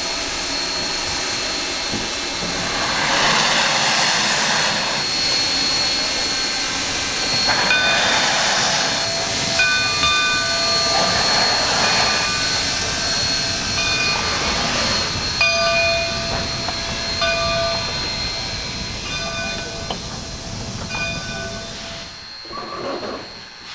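Steam locomotive hissing steam as it moves slowly through the yard, with louder rushes of exhaust every few seconds. The sound cuts off near the end.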